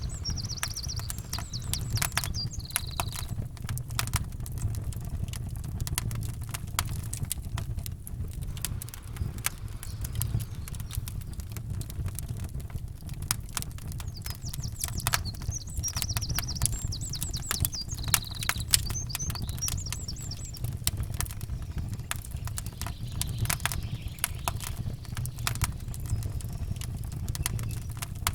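Campfire crackling and popping in irregular snaps over a steady low rumble. A bird sings short high trilling phrases near the start and again about halfway through.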